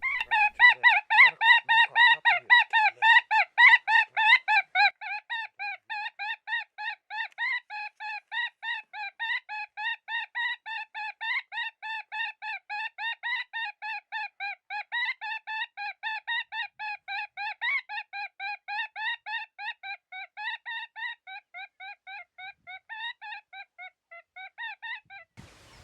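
Electronic predator call playing a prey distress sound: a fast, unbroken string of short pitched squeals, about four a second, louder for the first five seconds and softer after that, stopping just before the end.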